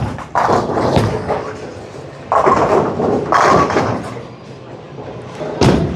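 Bowling alley noise: balls landing and pins crashing, a run of thuds and clattering crashes with a sharp knock near the end.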